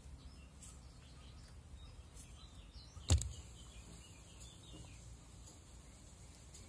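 Faint birds chirping over low outdoor background noise, with a single sharp knock about three seconds in.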